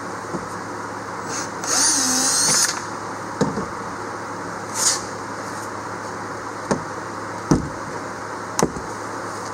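Cordless drill-driver running for about a second as it backs a glued-in screw out of the boat's floor, followed by several scattered knocks and clicks.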